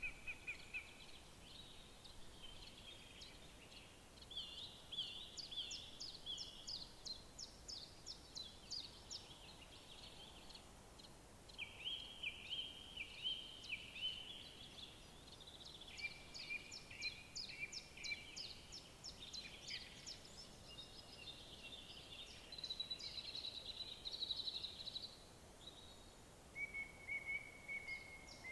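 Several songbirds singing at once in woodland, with rapid trills and repeated chirping phrases overlapping over a faint steady background hiss.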